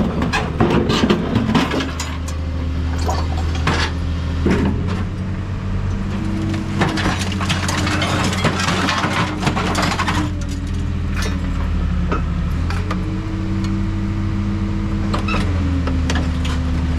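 Hydraulic scrap metal shear running a cycle: the steady hum of its hydraulic power unit under load, with scattered metal clanks and cracks as scrap is pushed and cut. The hum changes pitch twice near the end as the machine's stroke changes.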